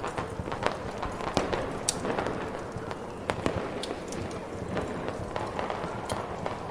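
Fireworks popping and crackling in irregular sharp bursts over a steady hiss of snowstorm wind.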